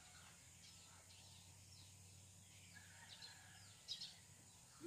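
Near silence with faint, scattered bird chirps, two of them a little louder about four seconds in.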